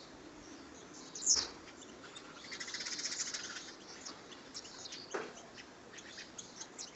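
Small birds chirping: a sharp, loud downward-sweeping chirp about a second in, a buzzy chatter lasting over a second, then another falling call and scattered short high chirps.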